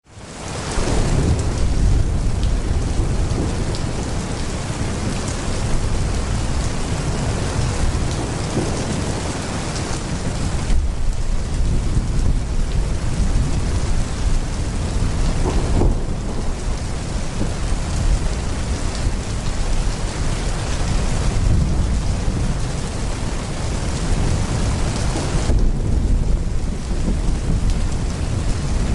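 Heavy rain pouring steadily, with a continuous low rumble of thunder underneath. It fades in within the first second.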